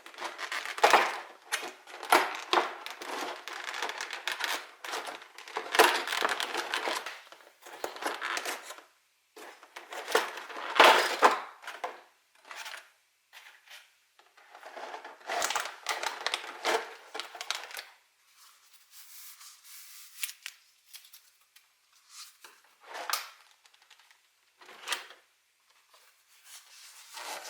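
Packaging of a Pokémon TCG premium box being opened and handled: crinkling, rustling and tearing in irregular bursts with small taps and clicks, thinning to sparse light handling noises in the last third.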